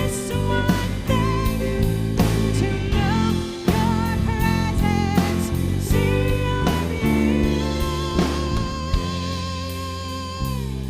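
A worship band playing a song: a sung melody over drum kit, guitar and bass, ending on a long held sung note that falls away near the end.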